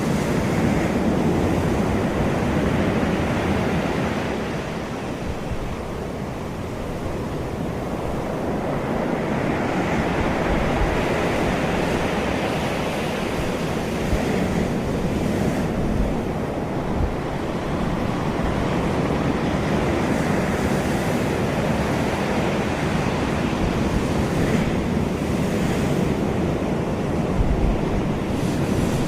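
Ocean waves breaking and washing on a beach, a continuous surf that swells and ebbs every few seconds, with wind rumbling on the microphone.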